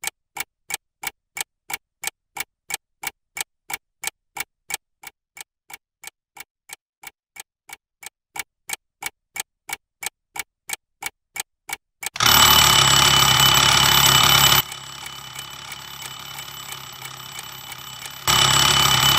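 A clock ticking steadily, about three ticks a second, then an alarm clock ringing loudly from about twelve seconds in; the ringing drops quieter for a few seconds and comes back loud near the end.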